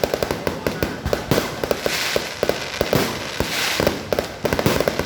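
Fireworks going off in quick succession: a dense run of sharp bangs and crackles, several a second, with hissing between them.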